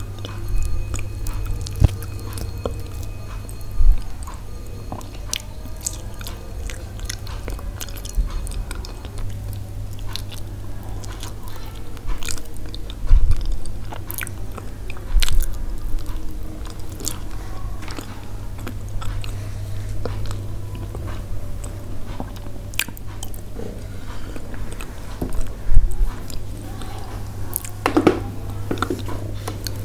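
Close-up chewing and biting of soft steamed yellow pumpkin, with many small wet mouth clicks and a few louder bites, over a steady low hum.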